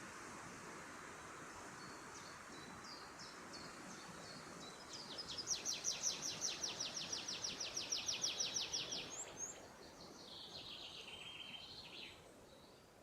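Songbird singing a fast trill of evenly repeated high notes, about seven a second, starting about five seconds in and lasting some four seconds. A shorter, lower trilled phrase follows near the end, over a steady forest background hiss.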